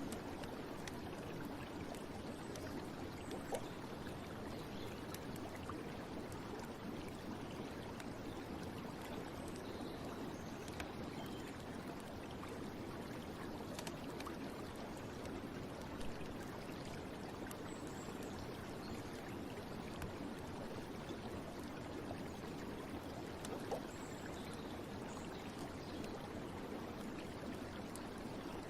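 Steady running water, an even rushing flow with a few faint ticks over it.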